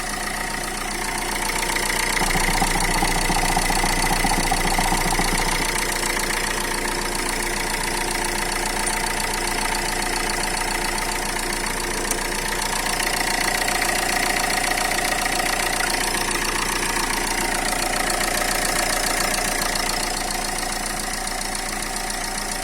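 Renault 1.5 dCi K9K four-cylinder turbodiesel running at idle. It gets louder for a few seconds about two seconds in, and again for several seconds in the second half.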